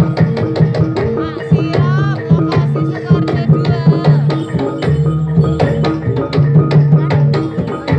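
Javanese jaranan ensemble music: hand drums beating a quick, steady rhythm over sustained ringing gong tones. A wavering high melody line enters briefly about two seconds in and again about four seconds in.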